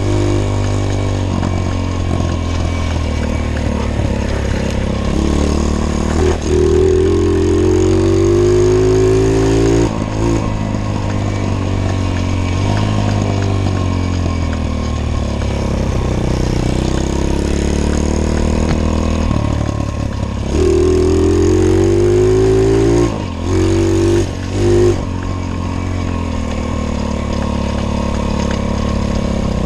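Small pit bike engine running while ridden, accelerating twice with a long rise in pitch about a third of the way in and again past two-thirds, each ending with the throttle suddenly shut, followed by two short throttle blips.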